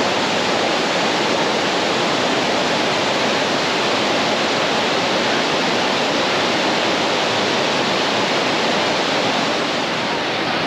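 Steady, loud rush of water pouring over a waterfall.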